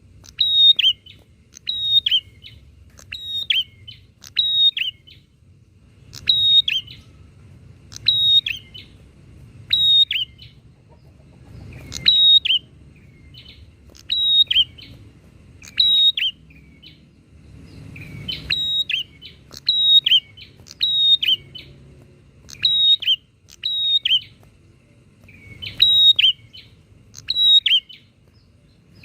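Prinias (prenjak) calling back and forth: sharp, high chirps, each dropping in pitch, repeated about once a second with a few short pauses. A faint low hum runs underneath.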